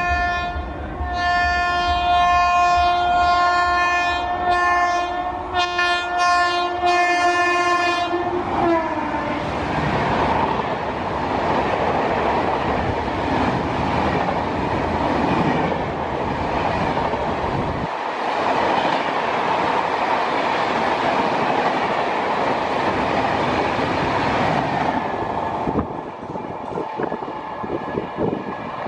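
WAP-7 electric locomotive sounding its horn in one long chord with two short breaks, the pitch dropping slightly as it passes about eight seconds in. The express then rushes past at high speed, a loud steady roar of coaches and wheels clattering on the rails, until a fainter horn comes in near the end.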